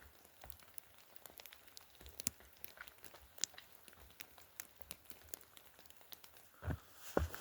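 Faint, scattered ticks of rain falling, with a few heavier footfalls on the trail near the end.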